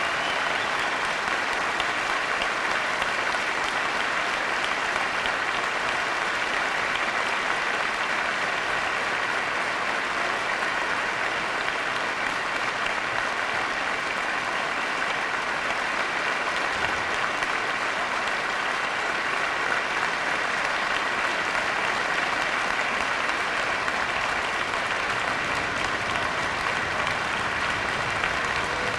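Audience applauding steadily and at length after a song ends.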